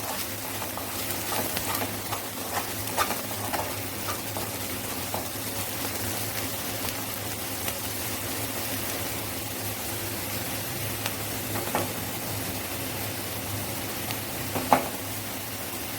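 Chopped onion and capsicum sizzling steadily in a hot kadhai while being stirred and mixed, with a few light knocks of the spoon against the pan.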